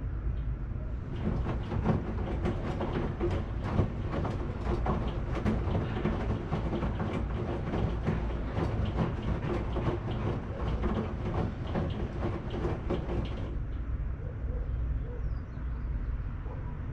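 Washing machine running: a steady low hum, with a busy clatter of rapid knocks and rattles from about a second in until a few seconds before the end, when only the hum is left.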